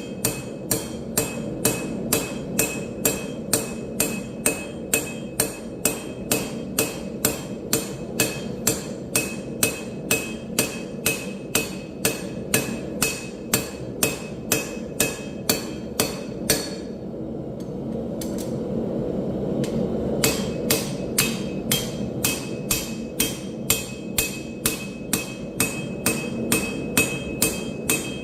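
Steady, even hammer blows on an anvil forging steel, about two and a half strikes a second, each with a short metallic ring. The blows stop for a few seconds past the middle, then resume at the same pace. A steady low rumble runs underneath.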